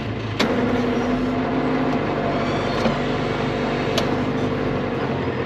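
Tractor engine running steadily while straw bedding is dropped, with a sharp knock about half a second in and another at about four seconds.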